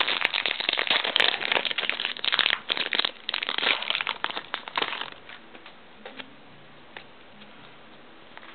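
Foil Pokémon booster pack wrapper being crinkled and torn open: dense crackling for about five seconds, then only faint rustles and ticks.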